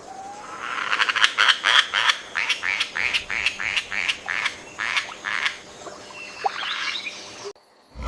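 A frog croaking in a rapid series, about three short calls a second for several seconds, then fainter scattered calls.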